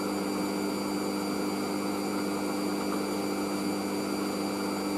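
Hoover SIX AAA160 washing machine spinning its drum at a steady speed during an intermediate spin of about 400 rpm, the motor giving an even hum with a faint high whine.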